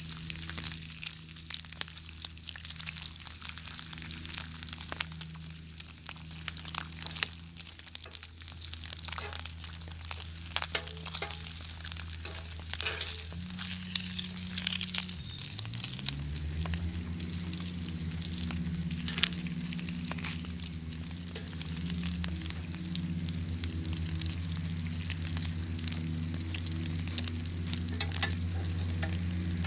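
Bacon sizzling and spattering in a pan over a crackling fire, with a constant hiss and many small pops. A steady low hum runs underneath, dipping in pitch about halfway through and then holding steady, a little louder.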